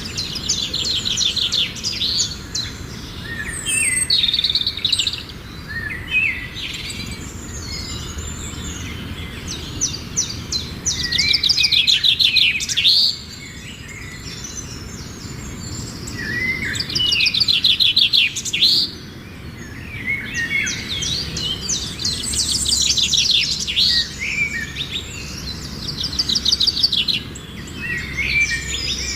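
Bird chicks calling to their parent: high, rapid chirps in repeated bursts of a second or two, with short pauses between bursts.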